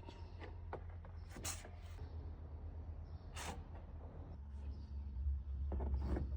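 A few scattered light clicks and knocks, like parts being handled during filter and oil work, over a low steady rumble that grows a little stronger about two thirds of the way in.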